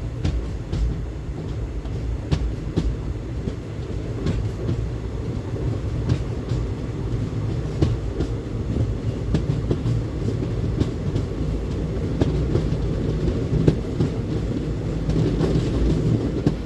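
Passenger express train running at speed, heard on board: a steady low rumble with the clickety-clack of wheels passing over rail joints.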